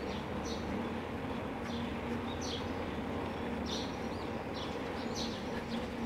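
Birds calling with short, high, falling chirps, about half a dozen spread irregularly, over a steady background rumble.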